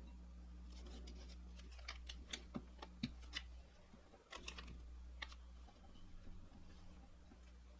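Scattered light clicks and taps, bunched about two seconds in and again about four and a half seconds in, over a faint steady hum.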